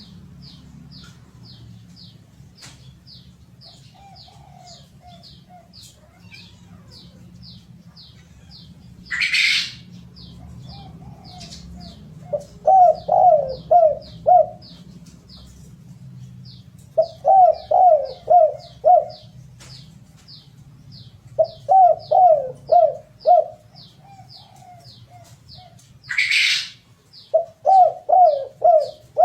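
Derkuku doves cooing in repeated phrases of four or five low notes, with softer single coos between them. A small bird chirps steadily in the background, about three times a second. There are two short, loud rustling bursts, one about nine seconds in and one near the end.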